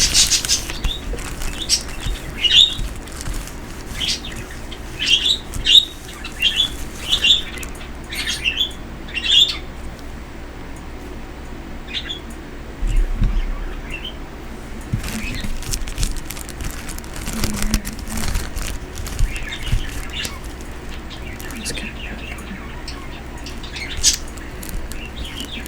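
Pet birds chirping: short, high chirps in quick succession, thick for the first ten seconds or so and sparser after, over scattered light clicks and rustles.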